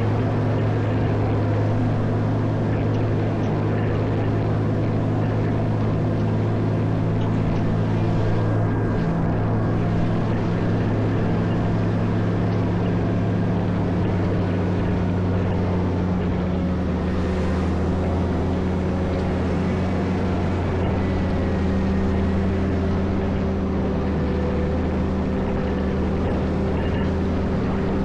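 Caterpillar 140M motor grader's diesel engine running steadily while plowing snow, its low note dropping slightly about two-thirds of the way through.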